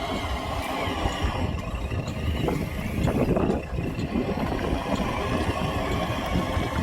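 Small electric motors and gears of radio-controlled construction models running with a faint wavering whine, over a dense low rumble and a few scattered clicks.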